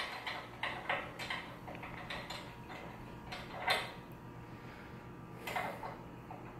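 Scattered light clicks and taps of metal tools and hardware being handled, with one louder knock nearly four seconds in and a small cluster of clicks near the end.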